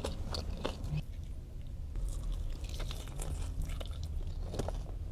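Close-up chewing of soggy fries dipped in Cane's sauce: soft wet mouth sounds with scattered small clicks and smacks.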